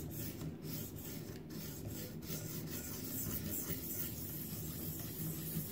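A ViperSharp guided sharpener's stone is stroked along the steel edge of a recurve knife blade, a steady rubbing, as the edge is reprofiled to a new angle.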